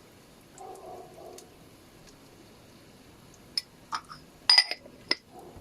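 Kitchenware clinking: a few short, sharp clinks in the second half, the loudest about four and a half seconds in.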